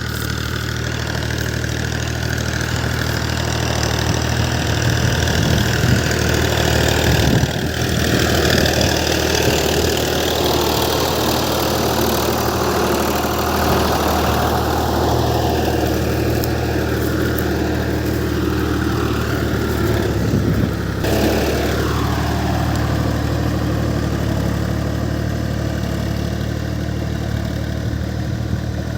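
Fiat tractor's diesel engine running steadily at a constant speed.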